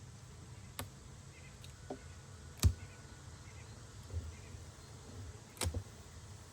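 Honeybees buzzing at an open hive during an inspection, with several sharp clicks and knocks of wooden hive boxes and frames being handled. The loudest knock comes about two and a half seconds in, and a quick double knock comes near the end.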